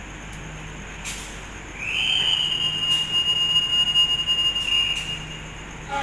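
Railway staff whistle blown in one long steady note of about three seconds, starting about two seconds in: the departure signal to the train about to leave.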